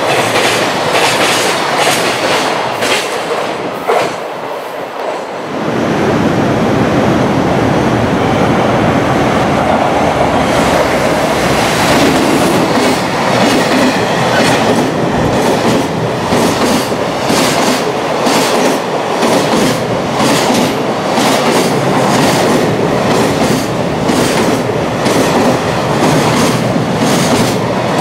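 Long JR Freight container train passing at speed, its wagon wheels clattering over the rail joints in a steady, rhythmic clickety-clack. The sound dips briefly about five seconds in, then picks up again as a second container train passes close by.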